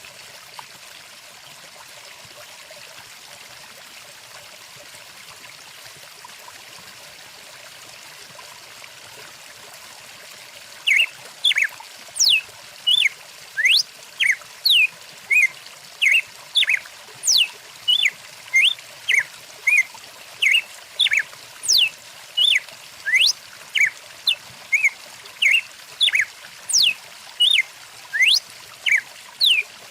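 Steady rush of a flowing stream. About a third of the way in, a songbird starts calling close by, repeating short rising and falling whistled notes about twice a second, much louder than the water.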